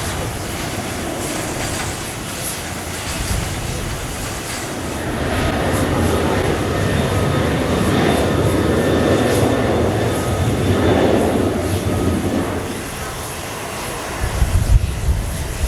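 Boeing 777-300 turbofan engines running, the noise swelling for several seconds with a faint high turbine whine and then easing off. A few low thumps near the end.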